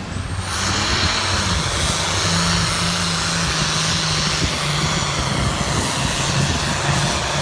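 Farm tractor engine opening up to full throttle about half a second in, with a high whistle rising as it does, then running loud and steady under load as it pulls the sled.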